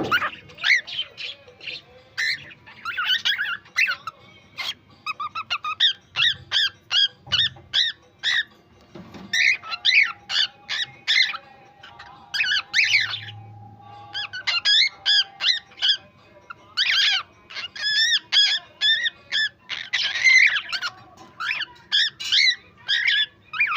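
Cockatiel chirping and whistling in rapid series of short, pitch-bending calls with brief pauses between runs.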